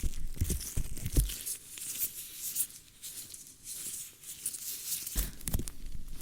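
ASMR ear-cleaning sounds on a microphone: irregular scratching and rustling, with a few soft low thumps where the mic is touched, several near the start and two more about five seconds in.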